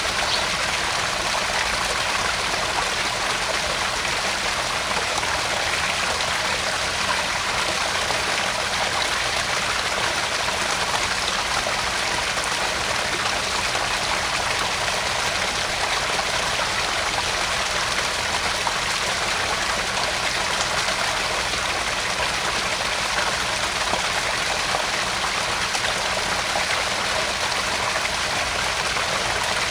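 Small garden pond waterfall: water spilling and splashing steadily into the pond, an even rushing with no breaks.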